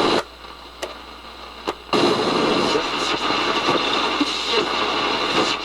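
Panasonic RX-5031 boombox radio hissing with static, probably while being tuned between stations. The static drops off for about two seconds, with two sharp clicks, then comes back steady.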